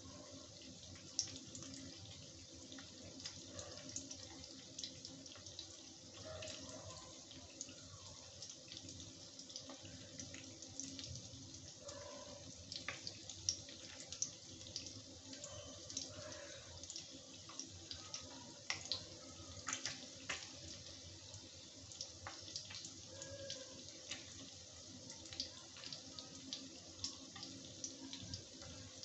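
Paneer cubes frying in hot mustard oil in a wok: a steady, soft sizzle broken by frequent small crackles and pops.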